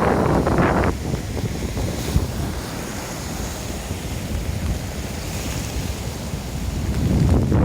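Large sea waves breaking and washing up the shore, with wind buffeting the microphone. The wash is loudest in the first second, settles into a lower hiss and rumble, and surges again near the end.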